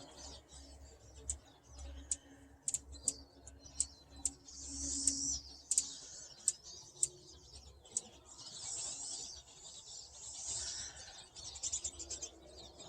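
A flock of pine siskins chirping and twittering: many short, high chirps scattered throughout, with several longer buzzy, wheezy stretches of calling.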